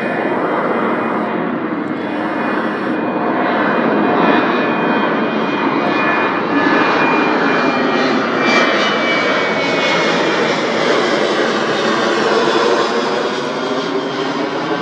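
Jet airliner passing at close range, its engines loud with a thin high whine over the noise. The sound shifts in pitch and character as the aircraft goes by.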